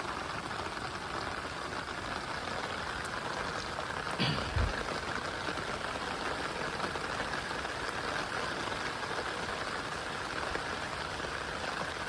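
Steady rain falling, an even hiss. A brief low thump about four seconds in.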